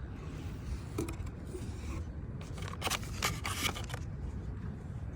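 Handling noise: a few light clicks about a second in and a quick cluster of clicks and scrapes around three seconds in, over a low steady hum.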